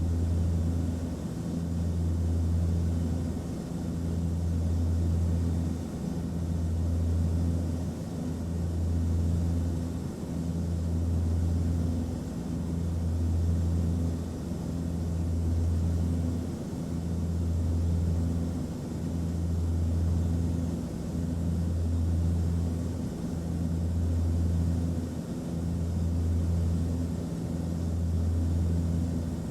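Airplane cabin noise: a low, steady engine drone that swells and fades about every two seconds, over a constant airflow hiss.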